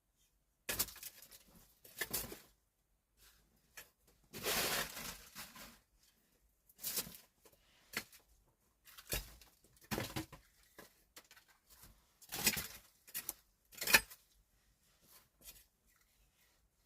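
Irregular handling noises: separate rustles, snaps and sharp knocks, with a longer rustle about four seconds in.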